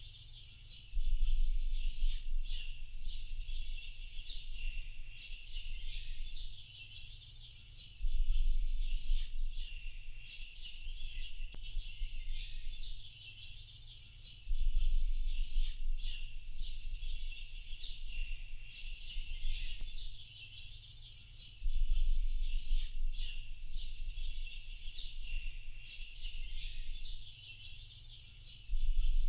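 A dense chorus of many small birds chirping and twittering without a break. A low rumble underneath swells in about every seven seconds, louder than the birds each time.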